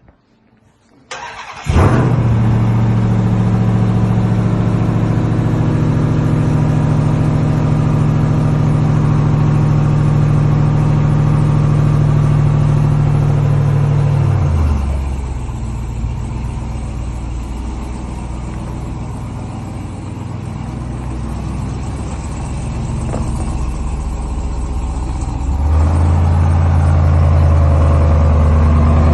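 Ram 1500 TRX's supercharged 6.2-litre Hemi V8 cold-starting: a short crank about a second and a half in, then it fires and settles into a loud, steady fast idle. About halfway through the idle drops lower and quieter, then steps back up a few seconds before the end.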